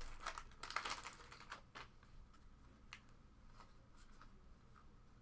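Faint light clicks and rustles of a freshly opened trading-card pack being handled, the cards flipped through. The clicks are busiest in the first two seconds, then thin out to sparse soft ticks.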